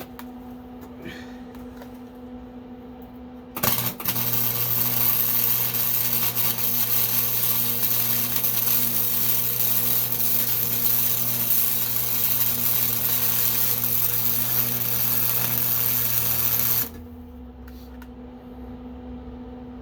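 Electric arc welding: a single weld run that starts suddenly about three and a half seconds in as a loud, steady hiss with a low hum under it, and cuts off sharply about three seconds before the end. A quieter steady hum runs before and after it.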